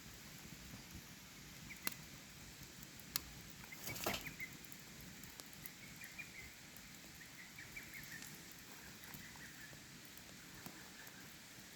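Wood campfire crackling, with a few sharp pops and a louder burst of crackle about four seconds in, over the steady rush of flowing stream water.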